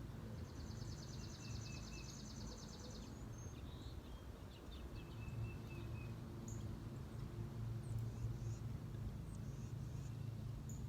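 A small songbird sings a rapid, high, even trill for about two and a half seconds near the start, followed by scattered short chip notes, over a steady low outdoor rumble.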